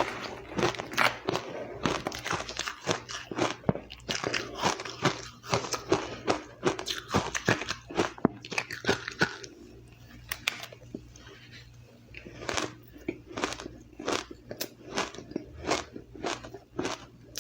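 Close-up chewing of crushed, powdery ice: fast runs of crisp crunches as the ice is bitten and chewed. The crunching thins out for a couple of seconds in the middle, then starts again.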